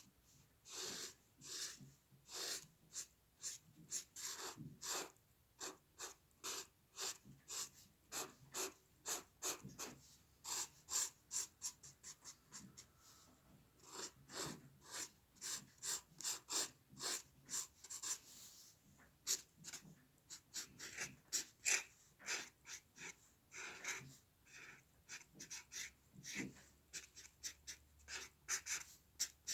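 Hand drawing on paper: a drawing tool's short scratching strokes, several a second in uneven runs with brief pauses.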